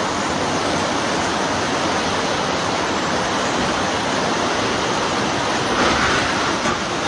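Floodwater rushing through a street, a loud, steady torrent of water with no let-up.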